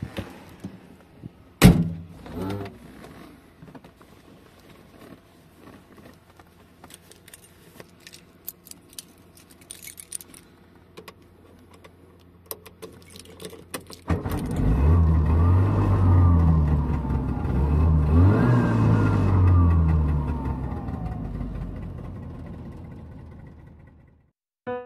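Subaru 360's small two-stroke two-cylinder engine heard from inside the cabin: a faint idle with clicks and one loud thunk about two seconds in, then from about two-thirds of the way through it revs up hard as the car pulls away, the pitch climbing and dropping several times through the gears before easing off near the end.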